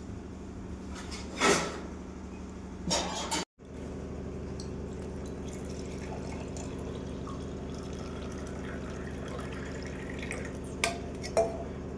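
Liquid being poured and splashing into a glass, twice, over a steady low hum; a few short clicks near the end.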